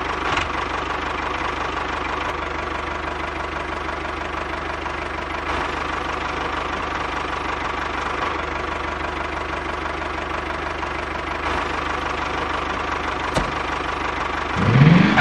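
Small engine running steadily with an even, unchanging note, the running sound of a miniature DIY model tractor. A short rising sweep comes near the end.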